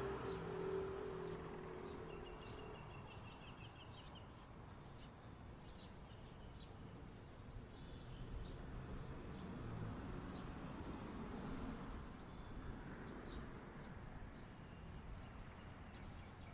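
Garden birds chirping in short high calls, with one rapid trill a couple of seconds in, over a faint steady rumble of distant city traffic that swells briefly in the middle.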